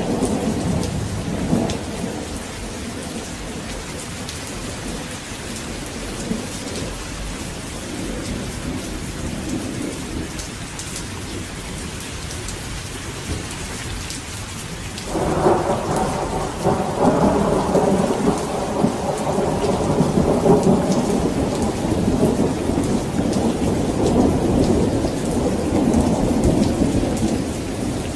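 Steady heavy rain with rolling thunder. A rumble dies away in the first couple of seconds, then a louder peal breaks in sharply about halfway through and keeps rumbling.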